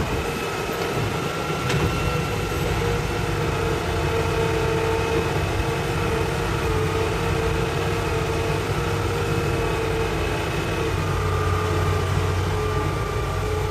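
Hitachi excavator's diesel engine running steadily, with a faint click about two seconds in.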